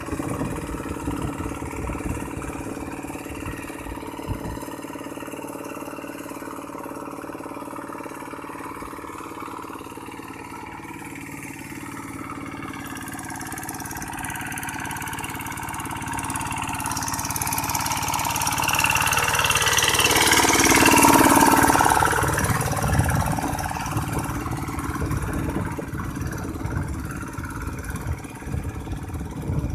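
A farm tractor's engine runs steadily. About two-thirds of the way in, a louder rushing sound swells up and fades away over a few seconds.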